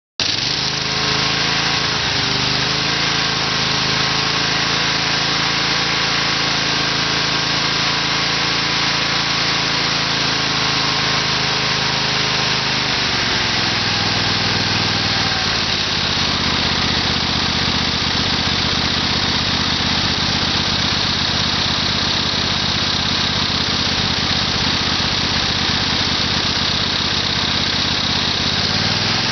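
Briggs & Stratton 20 hp twin-cylinder engine running steadily, throttled down to a lower speed about halfway through and brought back up near the end.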